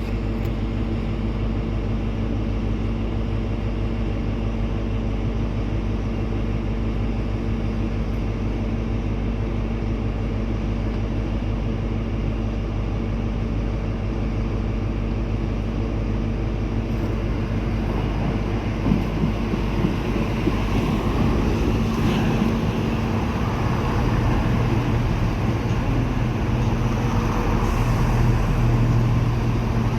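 A train running with a steady mechanical hum. It grows louder and rougher in the last third, with a few knocks.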